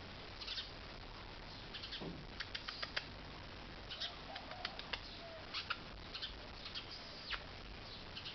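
Birds moving about, making irregular short scratchy clicks.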